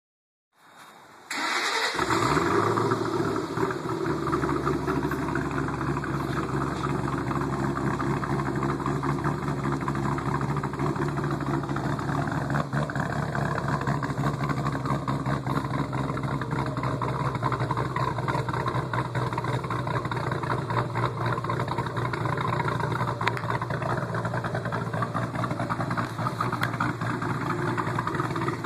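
2005 Mustang GT's 4.6 L V8, fitted with a Comp Cams Mutha Thumpr camshaft and a Bassani X-pipe with SLP Loudmouth mufflers, starting up. It catches with a short flare about a second in, then settles into a steady idle, heard close to the tailpipes.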